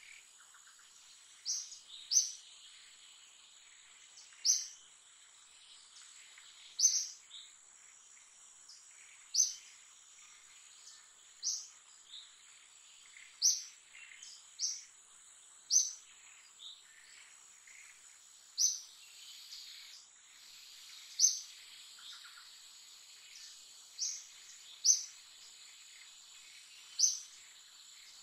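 A bird's short, high chirp repeated about every one to two seconds over a steady high-pitched insect drone, in forest ambience.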